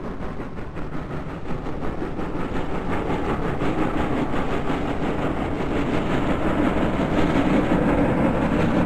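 Steam-hauled excursion train behind 2-6-6-4 steam locomotive number 1218 running: a steady rumble with an even, rhythmic beat throughout.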